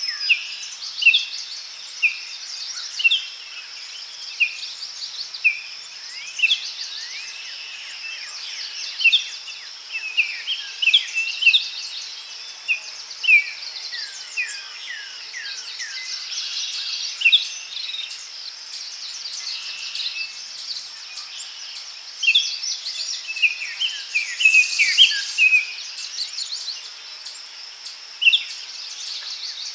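Daytime forest ambience: many birds giving short chirps and quick sliding calls, one after another, over a steady high drone of insects.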